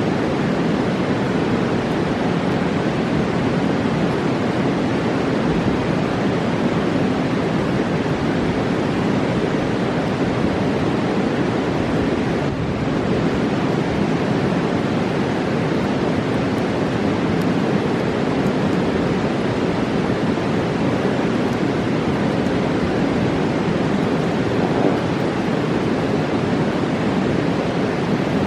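Fast-flowing mountain river rushing in a steady, unbroken roar of water.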